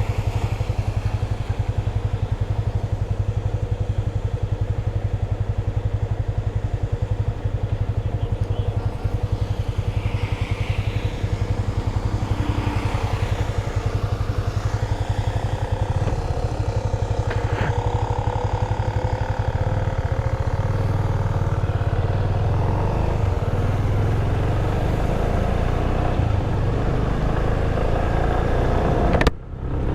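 Yamaha FZ25's single-cylinder engine running steadily while riding, its pitch drifting slowly up and down with speed. The sound cuts out sharply for a moment near the end.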